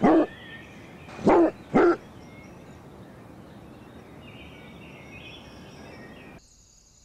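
A dog barking three times: once at the start and twice in quick succession about a second and a half in. After that comes outdoor background with faint birds chirping, which near the end cuts to a quieter background of crickets chirping.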